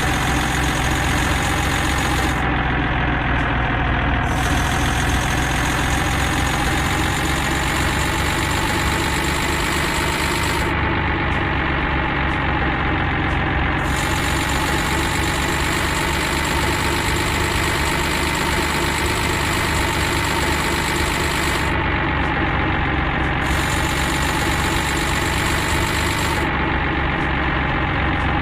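A vehicle engine idling steadily, its pitch dipping slightly now and then.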